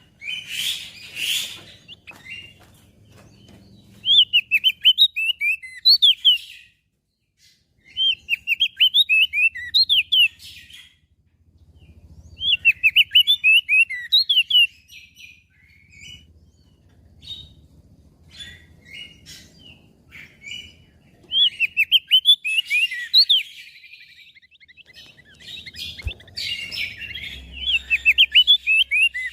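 Crested white-eye (opior jambul) singing: repeated bursts of rapid, high twittering notes, each lasting two to three seconds, separated by short pauses with a few scattered softer notes.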